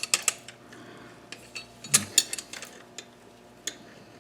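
Metal hand tools clinking and tapping against engine hardware while nuts are worked on: clusters of sharp clicks at the start and again about two seconds in, then a single click near the end.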